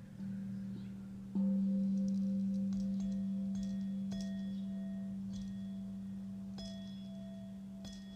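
Singing bowl struck once, about a second and a half in, ringing with a low steady hum that slowly fades. A smaller, higher ringing tone is tapped about every second and a half over it.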